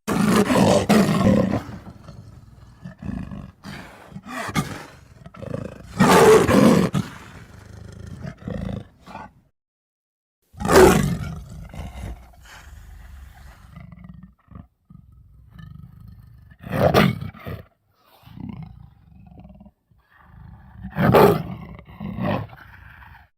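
Big-cat roars used as creature sound effects for a winged jaguar, about five loud roars a few seconds apart with lower growls and rumbles between them.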